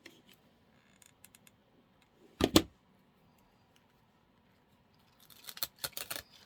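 Needle-nose pliers working the wire stems of artificial flowers: a few faint clicks, one sharp snip about two and a half seconds in, then a run of clicks and rustling near the end.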